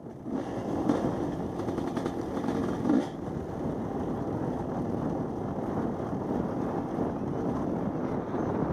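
Two-stroke Husqvarna dirt bike engine running as the bike is ridden, with wind on the microphone; it gets briefly louder about a second in and again at about three seconds.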